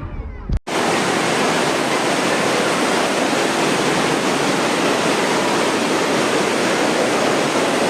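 Steady rush of fast-flowing floodwater, loud and unbroken, starting abruptly about half a second in.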